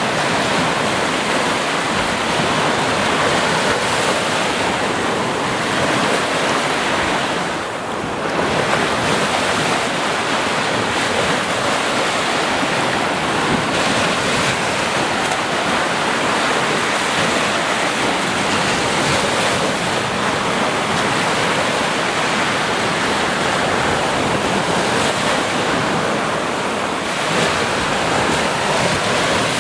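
Sea waves washing onto a beach, a continuous surf wash with little rise and fall, dipping briefly about eight seconds in.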